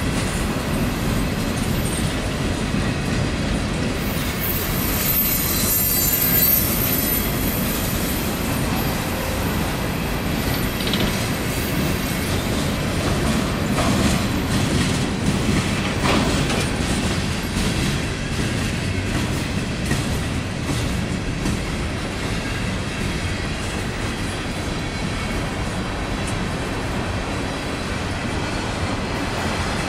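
Freight cars of a mixed manifest train rolling past at close range: a steady rumble of steel wheels on the rails with clacking over the joints. A thin, high-pitched wheel squeal runs from about four seconds in to about fifteen seconds in.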